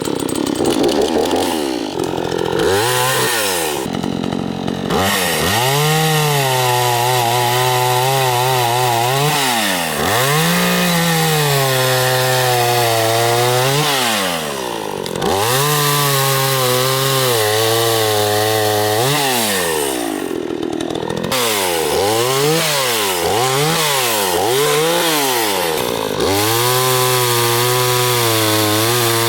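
Craftsman 42cc two-stroke chainsaw running and cutting wood. The engine pitch rises as it is throttled up and sags under load, over and over through a series of cuts on a trunk about 6 to 8 inches thick, without struggling.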